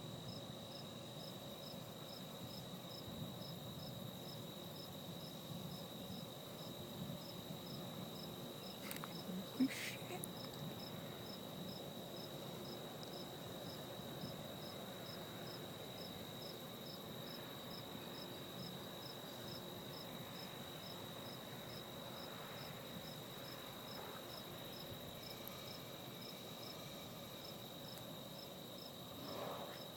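Crickets chirping: a steady high trill with a regular chirp about three times a second over it. One brief sharp click about ten seconds in.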